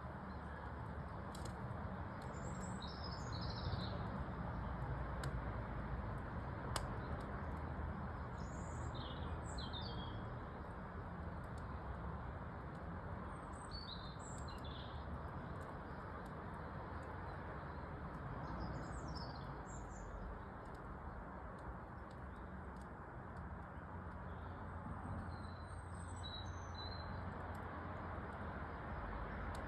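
A small songbird sings five short, high, chirping phrases, roughly every five seconds, over the steady low rush of a wood fire with a few faint crackles.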